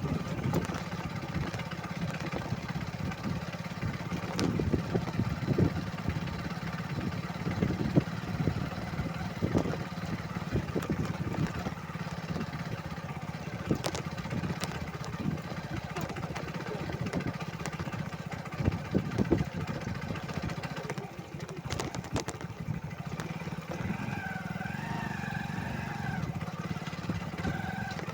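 Motorcycle engine running steadily while riding, with frequent short knocks and rattles. Near the end a faint wavering pitched sound joins in.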